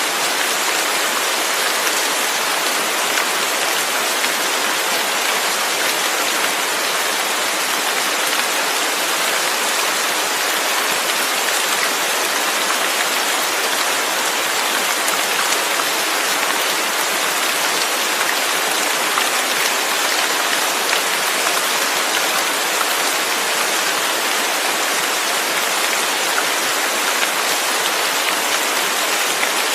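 Steady heavy rain, a dense even hiss of drops falling on surfaces with no pauses.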